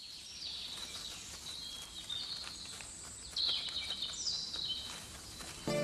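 Forest ambience with high-pitched bird chirps and trills, the loudest run of chirps about three and a half seconds in. Music starts right at the end.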